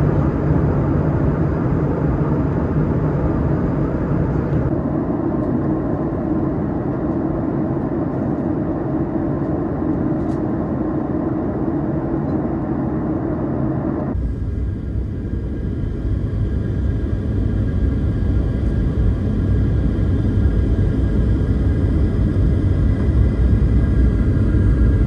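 Steady roar of a Boeing 737-900's cabin with its CFM56 jet engines running, a dense rumble with airflow noise. The sound changes abruptly twice, about five and fourteen seconds in. After the second change the low rumble is heavier and faint steady engine tones come through.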